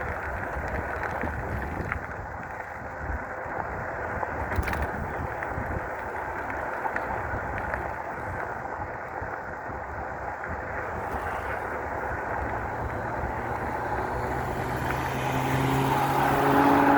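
Wind buffeting the microphone and steady tyre noise from an electric bike rolling along at speed. In the last few seconds a steady low hum with overtones comes up and grows louder.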